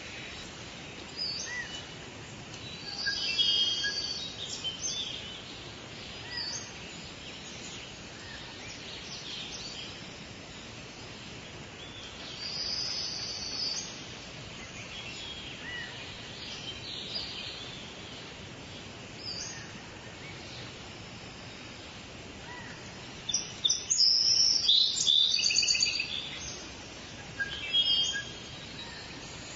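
Forest birds singing over a steady background hiss, with short chirping phrases every few seconds and a louder burst of song near the end.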